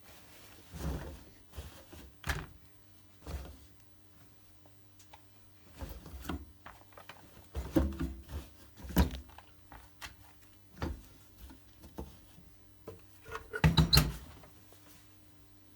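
A series of irregular knocks and clunks, loudest in a quick cluster near the end, over a faint steady hum.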